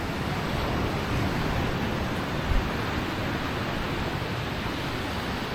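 Steady rushing noise, with one short low thump about two and a half seconds in.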